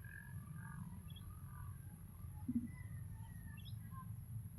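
Faint bird chirps: a scatter of short, high notes over a steady low background hum.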